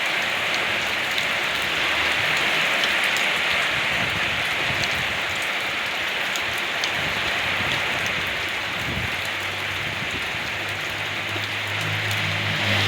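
Steady rain falling, with scattered drop ticks. A low steady hum joins in about nine seconds in and lasts to the end.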